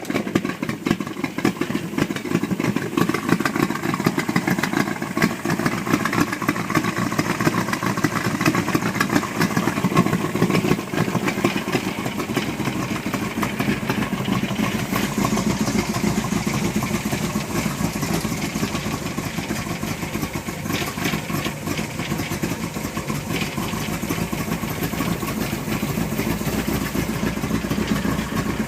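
Engine of a 1936 International Harvester C-1 hot rod truck idling steadily.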